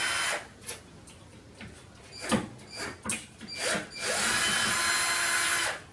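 Cordless drill-driver backing screws out of a shower-wall channel. It runs steadily at the start and stops, gives a few short trigger blips with small clicks, then runs again for nearly two seconds. The screws are heavily rusted.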